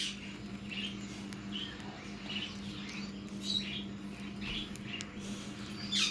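Small parrots chirping softly in short, scattered chirps over a steady low hum.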